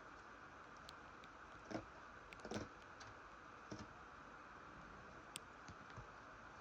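Near silence: steady hiss with a few faint clicks and taps from a plastic VHS cassette and case being handled, mostly in the middle of the stretch.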